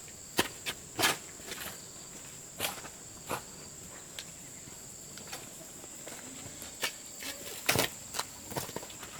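Steady high insect chorus, crickets or cicadas, with a scatter of irregular sharp knocks and scuffs, a cluster of the loudest just before the end.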